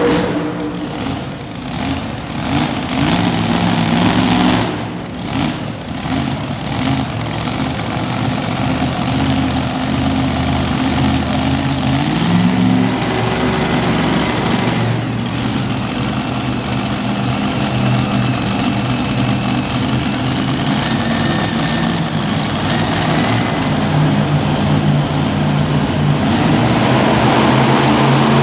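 Super modified two-wheel-drive pulling truck's engine idling and blipping the throttle, then running steadier and growing louder toward the end.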